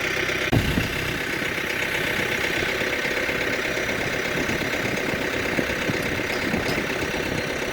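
An engine running steadily at idle, with a single thump about half a second in.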